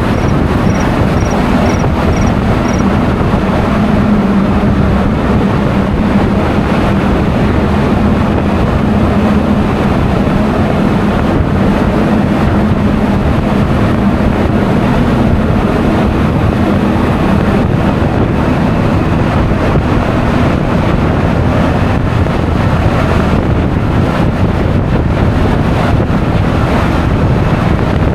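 Wind buffeting the action camera's microphone on a moving Honda Forza 350 scooter, with the steady drone of its single-cylinder engine underneath. In the first few seconds a row of short high beeps sounds, about three a second.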